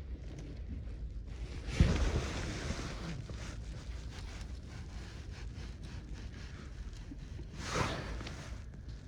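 Wind buffeting the microphone, a steady low rumble, with louder rushes of noise about two seconds in and again near the end.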